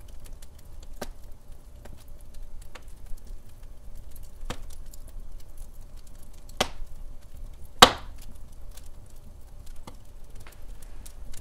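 Wood fire burning in a fireplace: logs crackling with irregular sharp pops over a low steady rumble, the loudest pop about eight seconds in.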